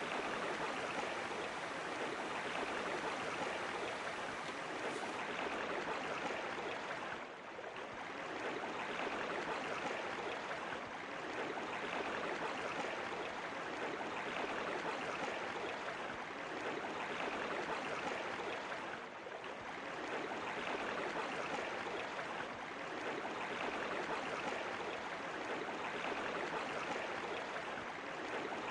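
Steady rushing of falling water. It dips in level briefly about seven seconds in and again about nineteen seconds in.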